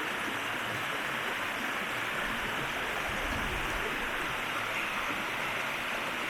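River water rushing steadily over rocks, a continuous even hiss of flowing water.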